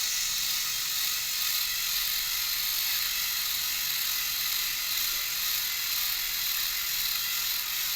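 Small electric motors and gears of motorized toy train engines whirring steadily as two engines push against each other head to head.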